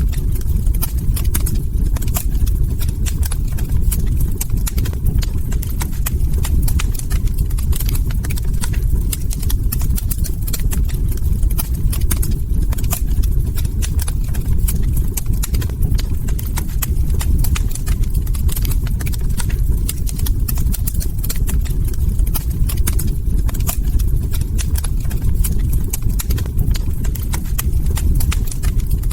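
Wood log fire crackling, with dense irregular snaps and pops over a steady low rumble of the burning.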